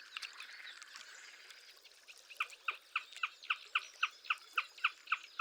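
Marsh birds calling: a soft jumble of chirps, then from about two seconds in one bird starts a steady run of short, sharp yelping notes, about four a second.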